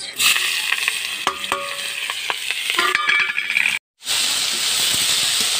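Sliced onion, garlic and green chilli sizzling in hot oil in a metal kadhai while being stirred, with clicks and short metallic scrapes against the pan. The sound breaks off just before 4 s and comes back as an even, steady sizzle of chopped saag greens frying in the pan.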